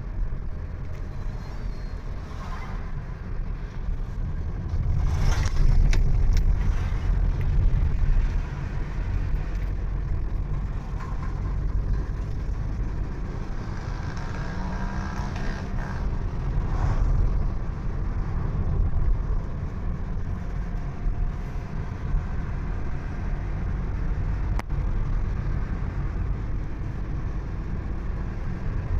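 Driving noise of a vehicle on the road: a steady low engine and tyre rumble that swells louder about five to eight seconds in.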